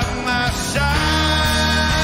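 Rock band playing live, dense and loud, with a heavy bass line coming in under the chords just under a second in.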